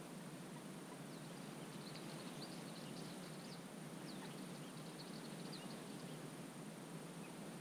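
Faint twittering of small birds: quick high chirps, many together between about half a second and six seconds in, over a steady low background hiss of wetland ambience.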